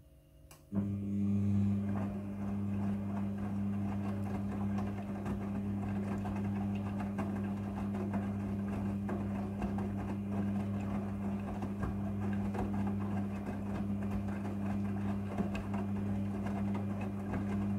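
Midea front-loading washing machine running part of its cycle: a steady electric hum over a rough rushing noise. It switches on suddenly about a second in and cuts off just before the end.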